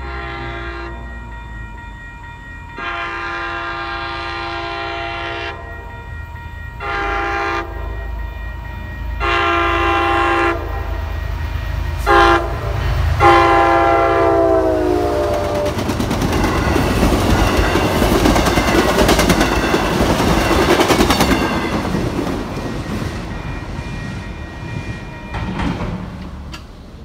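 MBTA commuter rail train led by an MPI HSP46 diesel locomotive sounding its horn in a series of long and short blasts as it approaches. The last blast drops in pitch as the locomotive goes by. The passing train makes a loud rush of engine and wheels with clicking over rail joints, which fades away near the end.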